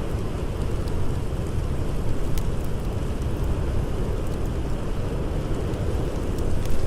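Blizzard wind blowing in a steady low rumble, with a few sharp crackles from a campfire, one about two seconds in and several near the end.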